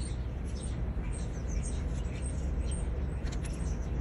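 Small birds chirping repeatedly over a steady low background rumble, with a couple of faint clicks about three and a half seconds in.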